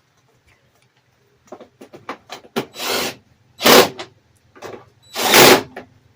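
Plastic scooter body panels being handled and fitted: after a short quiet start, a run of clicks and taps, then three louder scraping noises of plastic against plastic.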